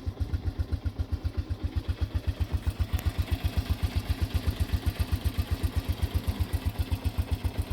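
1987 Honda TRX125 four-wheeler's single-cylinder four-stroke engine idling steadily on part choke, just after a cold start, as it warms up. It beats evenly at about six or seven low pulses a second.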